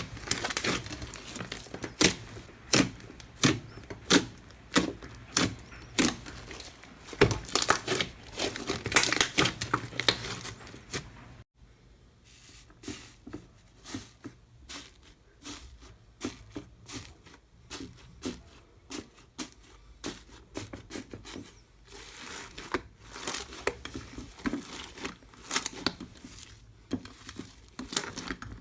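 Slime being squeezed, pressed and pulled by hand, giving a dense run of sharp crackling, popping clicks. The clicks are louder in the first ten seconds and quieter after a break about eleven and a half seconds in.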